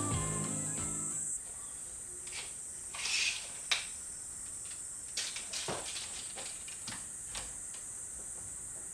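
Background music fading out, then a steady high-pitched insect drone with a few scattered clicks and knocks.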